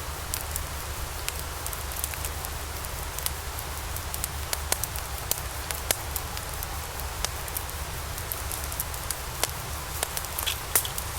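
Log fire burning in a fireplace: frequent sharp crackles and pops over a steady hiss and low rumble, with one louder pop near the end.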